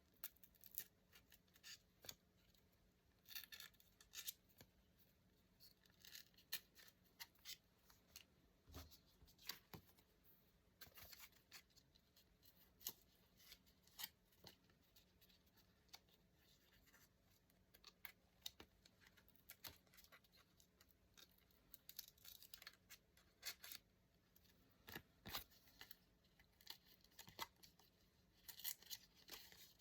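Quiet paper crafting: irregular crisp snips and short rustles of paper, a few every second or two, with brief louder stretches of paper noise now and then.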